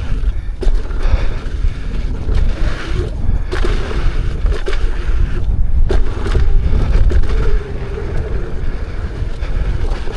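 Wind rushing over the microphone and a low rumble, broken by frequent knocks and rattles as a Lynx electric unicycle is ridden fast over a rough, rocky trail.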